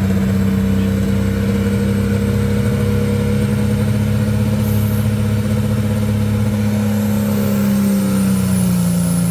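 Dodge pulling truck's engine held at steady high revs on the line, building boost, with a faint high whistle climbing over the last couple of seconds before the revs fall off at the very end. The truck fails to get off the line, which the announcer puts down to the wrong gear being selected.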